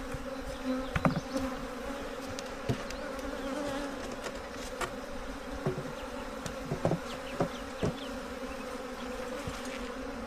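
Honeybees buzzing as a steady hum around an opened hive, with occasional light clicks and knocks from hive frames being handled.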